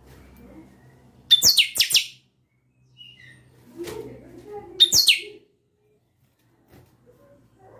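Male buffy-fronted seedeater (chanchão, pixoxó) singing two short phrases of quick, high, falling notes, about three and a half seconds apart.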